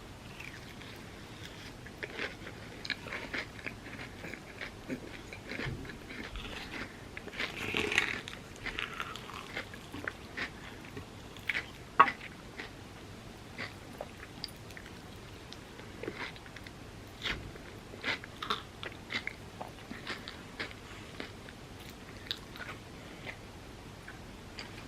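Close-miked eating: bites crunching through a hardened chocolate and pistachio kataifi topping on overnight oats, with chewing between bites. There is a louder crunch about eight seconds in and a sharp snap about twelve seconds in.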